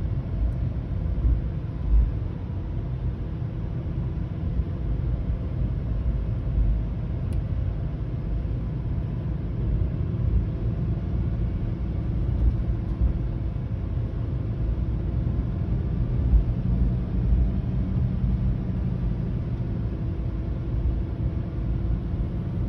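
Lamborghini Huracán STO's V10 engine running steadily as the car is driven slowly, heard from inside the cabin, with a few small swells in level.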